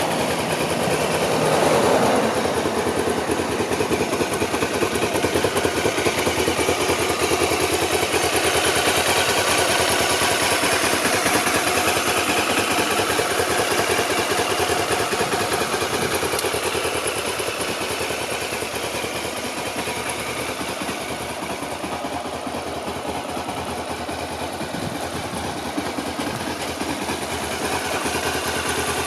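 Honda CBF500's parallel-twin engine running steadily at idle, with a short rise in revs about two seconds in.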